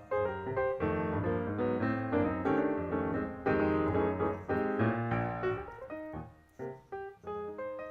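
Background piano music, a run of notes and chords at a lively pace that thins out near the end.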